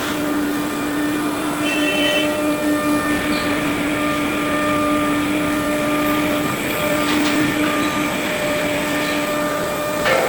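Machinery running steadily: an even mechanical noise carrying several steady tones, the strongest a low hum that drops out briefly about halfway through.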